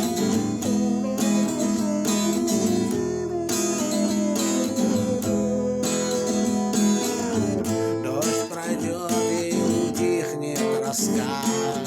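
Instrumental break in a song: acoustic guitar strumming, with a melody line on top that slides between notes.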